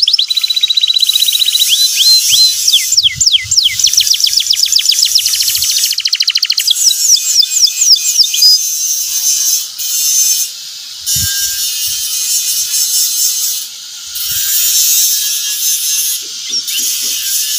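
Domestic canary singing. It starts with fast trills and quickly repeated sweeping notes, then turns into a high, buzzy chatter broken by short pauses.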